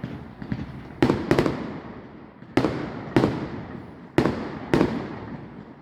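Fireworks display: aerial shells bursting with six sharp bangs, roughly in pairs, each trailing off in an echo.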